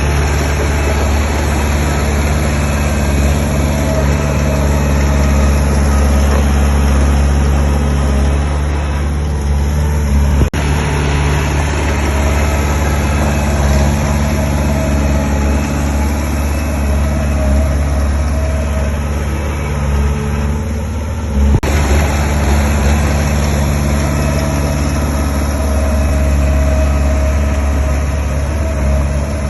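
Heavy construction machinery's diesel engine running steadily, with two brief sharp clicks about ten seconds apart.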